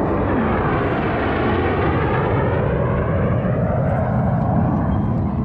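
An aircraft flying past low, a loud steady rush whose tone sweeps as it passes.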